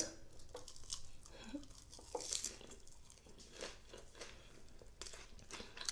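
Faint biting and chewing of crispy Korean spicy fried chicken, with irregular small crunches and wet mouth sounds.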